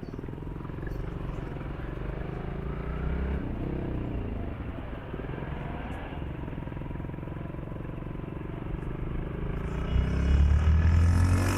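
Motorcycle engine running while riding, its pitch rising and falling with the throttle, growing louder about ten seconds in.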